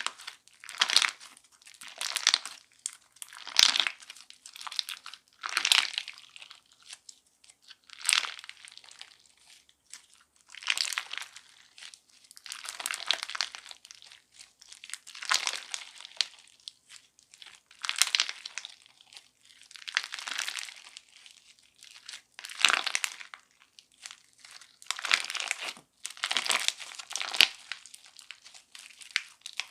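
Crunch slime packed with hard crunchy bits ('odol candy' slime) being squeezed and pressed by hand. It gives bouts of crackling crunches about every two seconds, with a few sharper pops among them.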